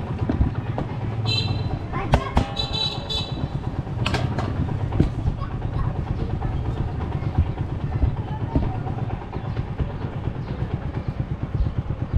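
A vehicle engine running steadily, with two short high-pitched beeps about one and a half and three seconds in, and scattered knocks and clicks.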